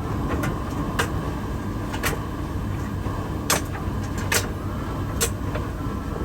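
Midea heat pump tumble dryer starting its cycle: a steady hum and rush from the turning drum, with irregular knocks and clicks about once a second as the wet laundry tumbles.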